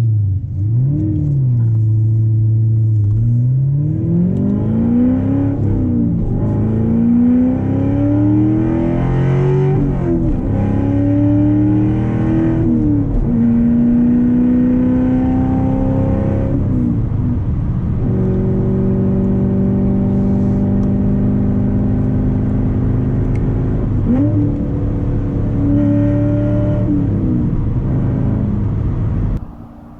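Straight-piped 2014 Corvette Stingray's 6.2-litre V8 accelerating through the gears, its pitch climbing and dropping back at each upshift, then running at a steady cruise with one more brief rise and fall. The sound drops away sharply near the end.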